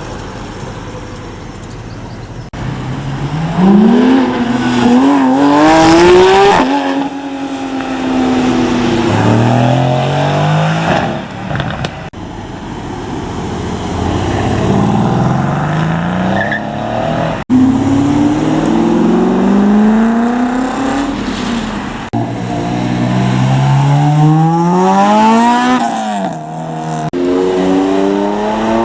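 Car engines revving hard as cars pull away under acceleration, each engine note climbing steeply and dropping back at a gear change, several times over. There are abrupt cuts between the separate runs.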